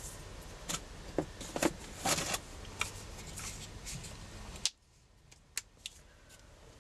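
Scattered small clicks, taps and rattles of craft supplies being handled on a work table, over a steady hiss that drops away about two-thirds of the way through.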